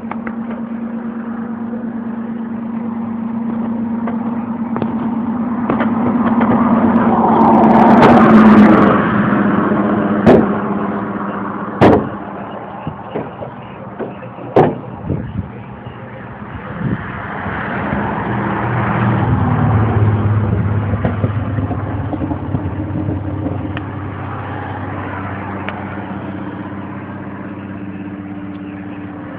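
1982 Chevrolet pickup's 350 V8 running, swelling louder twice and dropping lower in pitch during the second swell. A few sharp knocks come in between.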